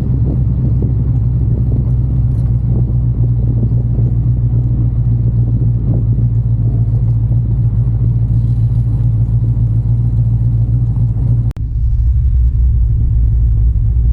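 Engine idling with a steady low rumble and no revving. About eleven and a half seconds in the sound breaks off for an instant, then carries on a little deeper.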